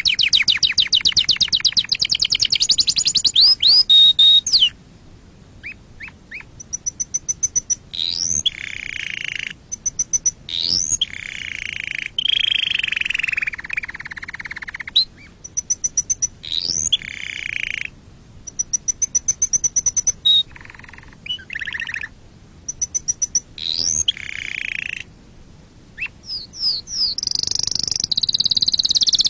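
Domestic canary singing: a loud, rapid trill at the start, then phrases of rising whistled sweeps and short trills broken by brief pauses, and another rapid trill near the end.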